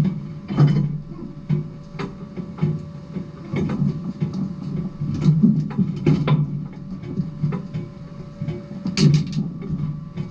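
Late model race car's engine running at speed on track, a steady low drone broken by frequent short sharp knocks and rattles.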